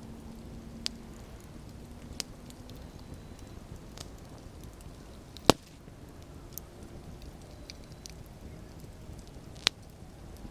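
Campfire burning with a steady low rush and a few sharp crackling pops, four of them clear and the loudest about halfway through.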